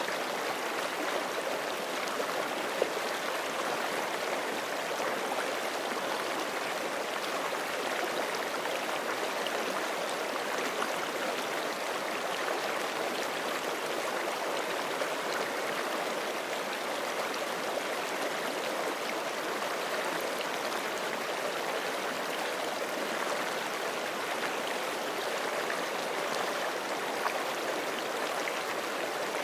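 Forest creek flowing over rocks: a steady, continuous rush of running water with fine splashing and gurgling, even throughout.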